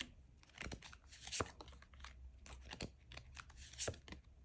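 Tarot cards being handled: a handful of short, crisp clicks and rustles of card stock, scattered irregularly.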